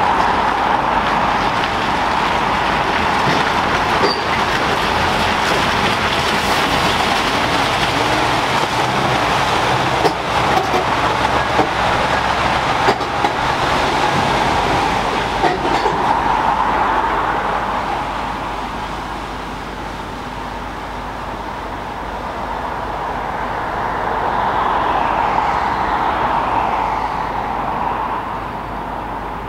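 A train passing close by, out of sight: a steady run of rail noise with a few clicks, dipping in the middle, swelling again with some falling whines, then fading near the end.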